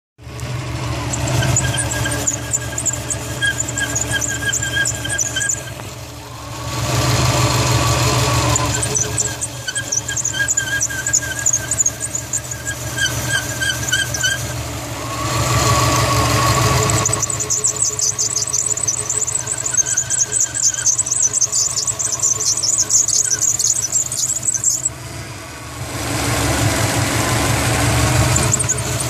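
2004 Subaru WRX STi engine running with a high-pitched, rapidly chattering squeal from the accessory belt drive, which the owner takes for the power steering pump belt squealing although the belts are fairly new. Three times it gives way for a couple of seconds to a louder rushing whine.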